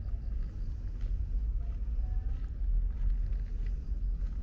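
Outdoor ambience of a walk in light rain: a steady low rumble of wind buffeting the microphone, with faint ticks of raindrops.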